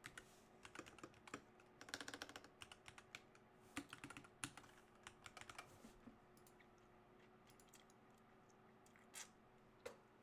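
Computer keyboard typing: quick runs of keystrokes for the first six seconds or so, then a few single key presses near the end.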